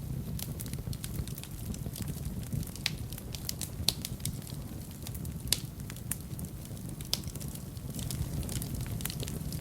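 Wood fire burning in a fireplace: a steady low rumble with irregular sharp crackles and pops, the loudest about four and five and a half seconds in.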